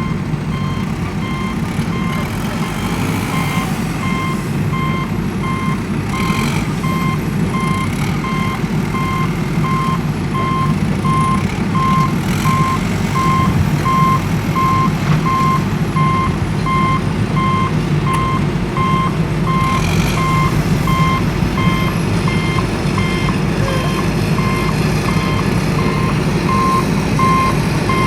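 Reversing alarm beeping in a steady, evenly spaced series over a continuous low rumble of a running machine.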